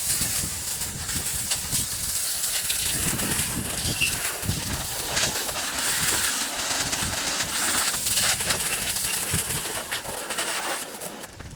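Water from a hose spraying over an engine bay, rinsing off degreaser: a steady hiss of spray with water splashing off the parts. The spray stops near the end.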